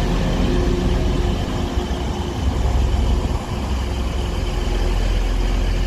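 Doubled-up Class 185 diesel multiple unit's Cummins engines running steadily at the platform with a continuous low hum.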